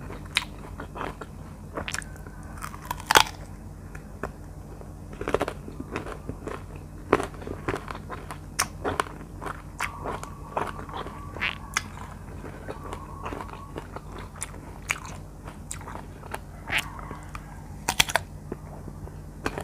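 Close-miked mouth sounds of biting and chewing firm slices of R2 mango: irregular wet smacks and clicks, with a sharp bite near the end.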